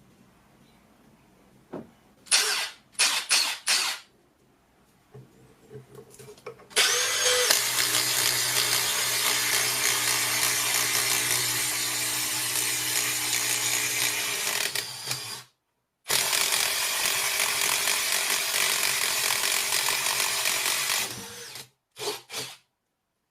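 Milwaukee cordless screwdriver motor, apparently repaired and now working. It is blipped with a few short trigger pulls, then runs steadily for about eight seconds, stops briefly, runs again for about five seconds, and ends with two more short blips.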